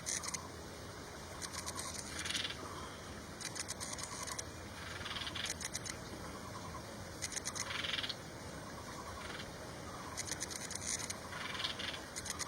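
Birds calling over and over: a short group of high chirps and a rapid rattle comes about every two seconds.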